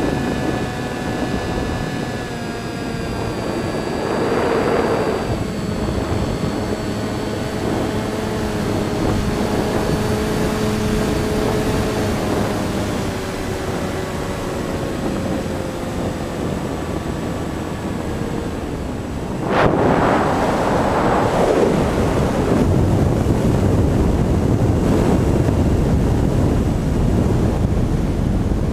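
Electric motors and propellers of a Finwing Air Titan RC plane whining in flight, their pitch slowly falling, under heavy wind rush on the microphone. About two-thirds of the way in the wind noise jumps suddenly louder and the whine is buried.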